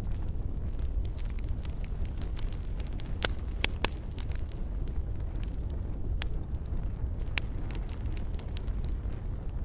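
Wood fire crackling in a fireplace: a steady low rumble of flames under frequent sharp pops and snaps, with a few louder pops spread through.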